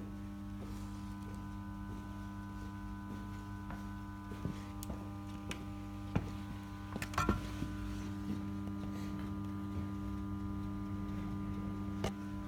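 Steady electrical hum with a pitched buzz, with a few scattered light clicks and taps, the clearest about seven seconds in.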